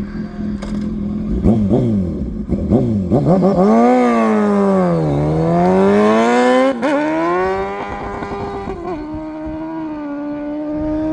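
A racing engine revving in quick blips, then accelerating away with its pitch climbing, dipping and climbing again. It settles to a steady note about eight seconds in as the vehicle runs down the course.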